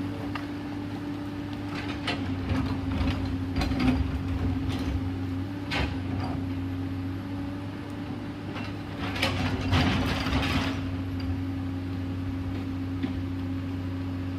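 Komatsu PC210LC hydraulic excavator's engine running steadily, with irregular clanks and rattles from the machine working, busiest a couple of seconds in and again around ten seconds in.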